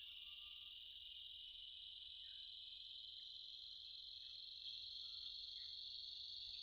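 Insects trilling in one continuous high-pitched drone that rises slowly in pitch, with a few faint short chirps underneath.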